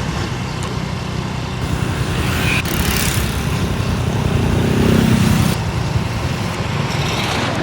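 Road vehicle's engine running steadily while under way, with wind and road noise; the engine note swells louder about five seconds in.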